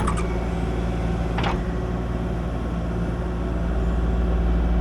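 Kubota KX040 mini excavator's diesel engine running steadily, growing a little louder near the end, with one short high squeak about a second and a half in.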